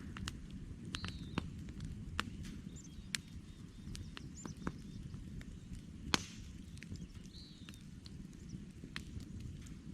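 Wood campfire burning with a low, steady rumble and frequent sharp crackles and pops, the loudest pop about six seconds in. A bird gives a short chirp twice, about a second in and near the end.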